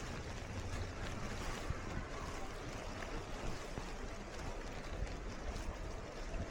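Floodwater sloshing and splashing in a steady wash, with wind buffeting the microphone in a low rumble.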